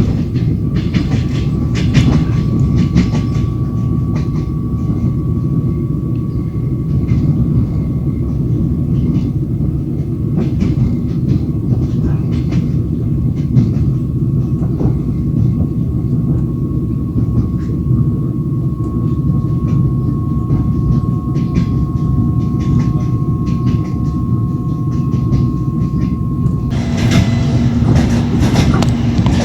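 Train wheels clattering over rail joints, with a steady rumble, heard from inside a moving passenger carriage. The clatter grows louder and brighter near the end.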